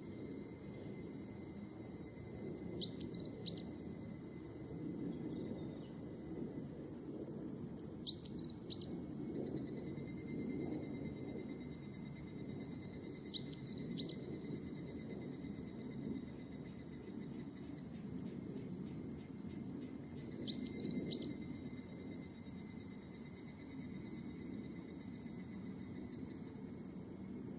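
Steady high-pitched drone of higurashi (evening cicadas) and other insects, with a bird's short chirping call four times, several seconds apart; the bird calls are the loudest sounds.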